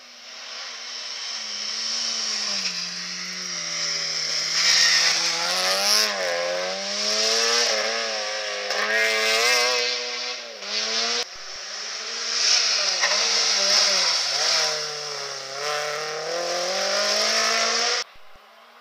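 Rally car engines revving hard through a mountain stage, the engine note repeatedly falling and rising as the cars brake, change gear and accelerate. The sound builds from quiet at the start, jumps abruptly to another car about eleven seconds in, and cuts off sharply near the end.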